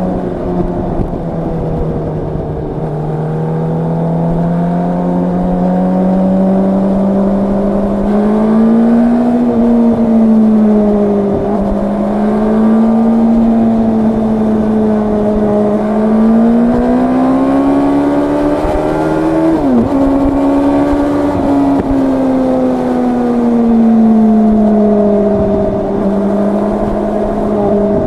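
Yamaha R1's crossplane inline-four engine and exhaust under way at moderate, fairly steady revs, the pitch rising and falling gently with the throttle. About twenty seconds in the pitch dips sharply and climbs back.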